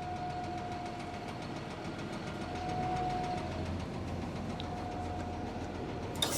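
Auger truck's engine idling steadily with a faint steady whine over it while its hydraulic outriggers are being worked. A sharp click near the end sets off a hiss.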